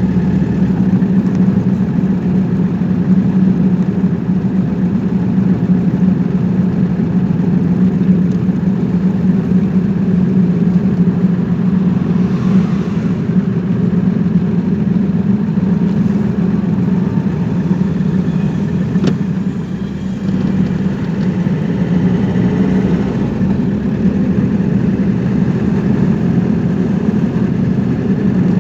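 Car being driven along a road: a steady engine drone with road and tyre noise, easing off a little about two-thirds of the way through.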